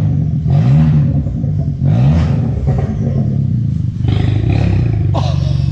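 2020 Kia Forte GT's turbocharged 1.6-litre four-cylinder running with no resonator, muffler or pipe after the cat, so it is loud and raw. It is revved up and back down a couple of times, then settles to a steady idle about four seconds in.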